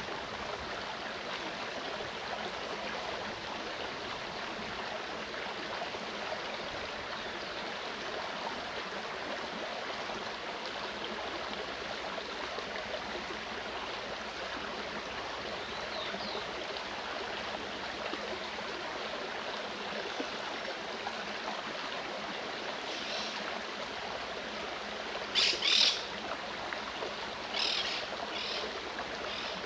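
Mountain stream running steadily. Near the end a bird gives a few short, high calls; the loudest comes about four seconds before the end.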